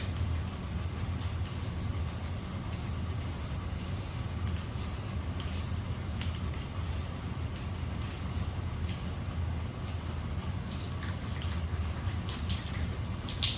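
Aerosol spray paint can sprayed in a series of short, irregular hissing spritzes, some around half a second, others briefly, over a steady low hum.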